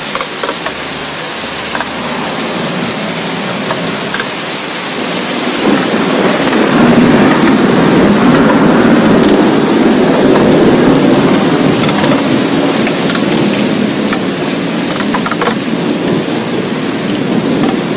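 Steady rain falling, with scattered sharp drops ticking close by. About five seconds in, a deep rumble swells up over the rain, holds for several seconds and slowly fades.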